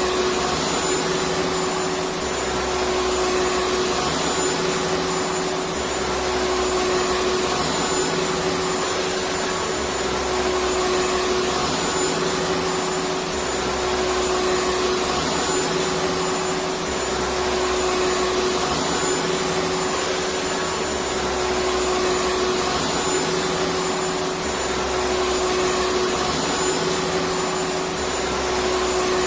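Vacuum cleaner running steadily: a continuous whooshing whir with a constant motor hum and a faint high whine, swelling slightly and easing back about every three seconds.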